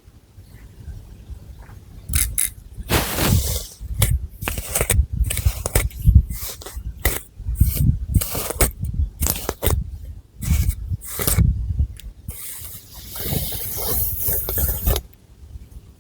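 Long fingernails scratching through thick hair and over the scalp, close to the microphone: a run of short scratching strokes, then one longer continuous scratch near the end.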